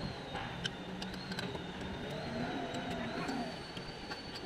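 Steady mechanical hum with a thin high whine, a wavering tone in the middle, and a few light metal clinks, typical of hand tools being handled during engine work.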